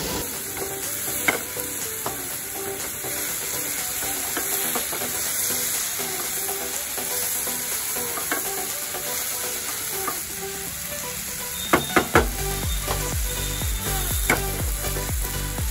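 Chopped tomatoes and onions sizzling in hot oil in a pan, stirred with a wooden spatula that scrapes and knocks against the pan. There are three sharp knocks about three-quarters of the way through.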